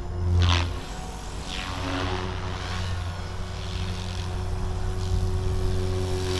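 GooSky RS4 400-size electric RC helicopter in flight: steady hum of its direct-drive brushless motor and spinning rotor blades. A louder rotor swoosh comes about half a second in, and a fainter one about a second later.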